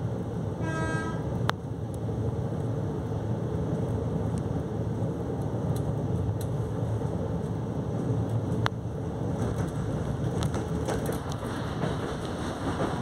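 Train running along the track, heard from inside the carriage: a steady low rumble of wheels and carriage. There is a short pitched tone about a second in, a sharp click at about one and a half seconds and another near nine seconds, and a cluster of clacks over the last few seconds.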